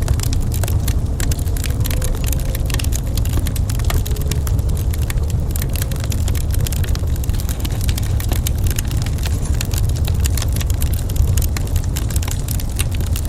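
Wood fire crackling in a fireplace: a constant scatter of small sharp pops and snaps over a steady low rumble.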